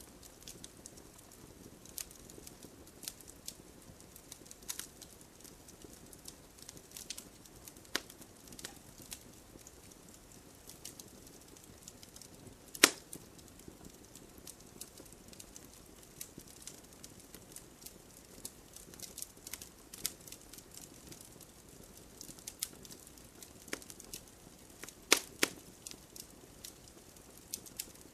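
Wood fire crackling: irregular sharp pops and snaps of burning wood over a soft low hiss, with one loud pop about halfway through and a cluster of pops near the end.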